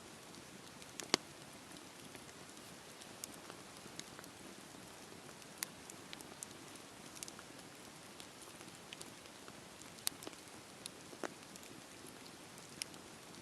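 Campfire burning: a steady soft hiss with irregular sharp crackles and pops of burning wood, the loudest pops about a second in and about ten seconds in.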